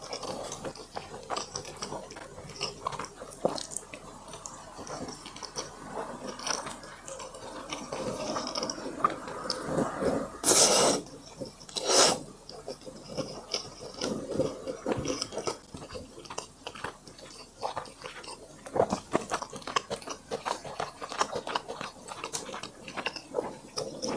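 Close-miked eating: chewing and mouth smacking on braised pork joint, rice and sour radish, with many small wet clicks throughout. Two louder, hissy bursts come about halfway through.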